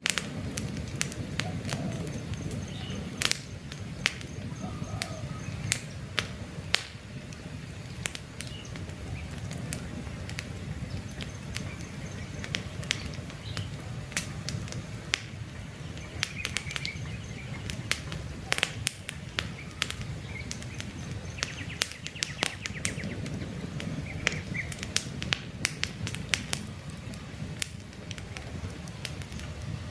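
Wood fire crackling, with frequent sharp pops and snaps over a low rush of burning flames. Faint bird chirps in the background.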